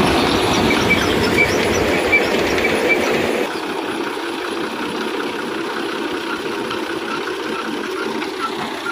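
Fiat 480 tractor running a tractor-driven thresher: a steady mechanical clatter with a regular high squeak about twice a second. About three and a half seconds in, the sound turns quieter and thinner, and a fainter regular tick carries on.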